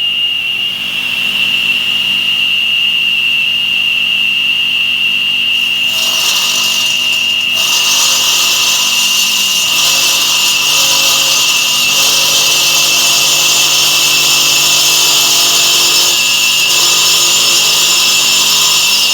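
Stone-cutting saw running, its spinning blade giving a steady high whine. About six seconds in, a harsh, hissing grind joins as the blade cuts into the stone.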